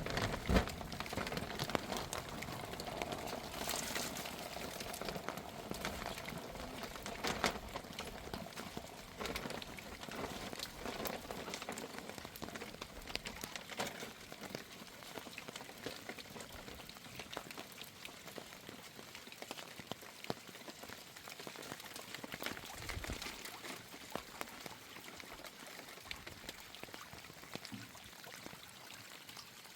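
Rain falling steadily, with many separate drops ticking and dripping on nearby surfaces.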